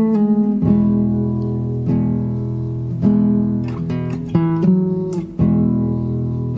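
Acoustic guitar playing the instrumental opening of a song, strummed chords that change about once a second, before the vocals come in.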